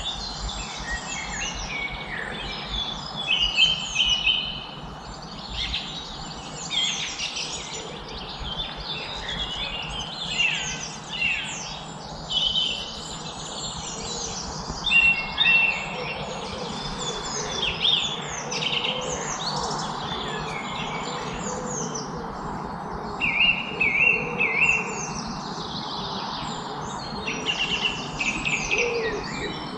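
Many songbirds chirping and singing at once, short overlapping high calls and trills with no pause, over a steady background hiss.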